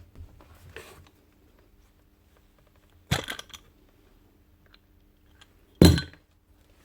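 A few small clicks, then two sharp clattering knocks about three seconds apart, the second louder: tools and parts being handled on a workbench while the hammer's housing is opened to reach the grease.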